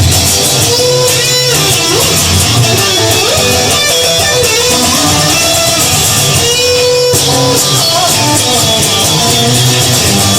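Blues music with electric guitar playing an instrumental passage over a steady bass line.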